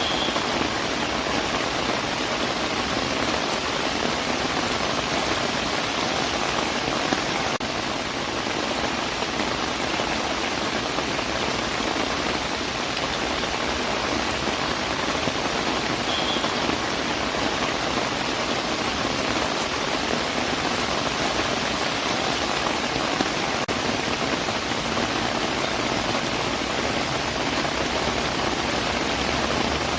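Continuous rain falling, a steady, even hiss with no breaks.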